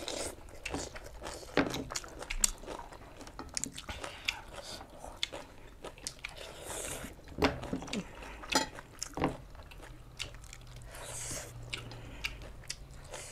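Close-miked eating sounds: a person biting and chewing food, with many short crunchy clicks and wet mouth noises.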